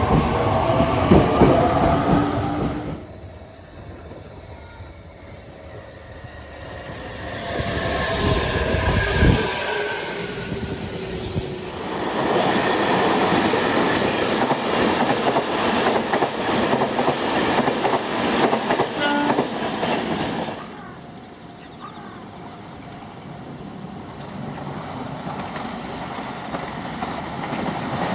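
JR Kyushu 817 series electric trains in several separate shots. At the start and again about 8 seconds in, a gliding motor whine rises and falls. From about 12 to 20 seconds in, the train's wheels run over the rails with rapid clicking at the rail joints, and the sound is quieter after that.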